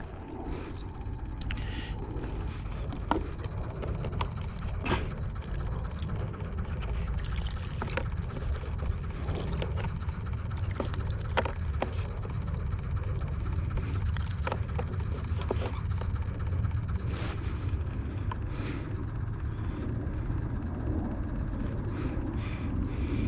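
Wind rumbling on the microphone in a steady low roar, with scattered light clicks and taps.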